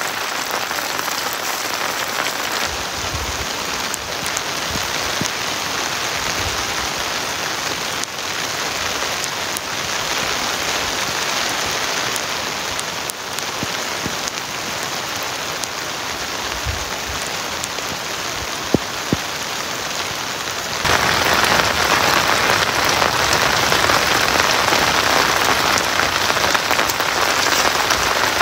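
Heavy rain falling steadily, a dense even hiss of drops; it grows louder about seven seconds before the end. Two brief clicks stand out about two-thirds of the way through.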